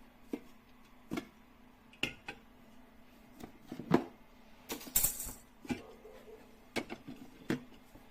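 Irregular clicks, taps and clinks of hard objects being handled, about ten in eight seconds, with a brief hissy rattle about five seconds in, over a faint steady hum.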